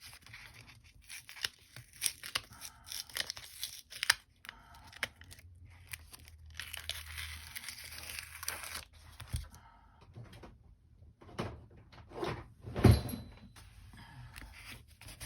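Paper being peeled and torn away from sticky adhesive, with rustling and crinkling as it is handled, a longer stretch of peeling in the middle, and one sharp thump near the end.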